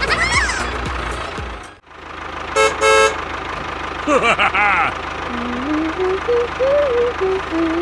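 Vehicle engine idling with a steady low pulse, with two short horn toots a few seconds in. Brief chirpy cartoon-like sounds follow, then a short tune of single held notes stepping up and down.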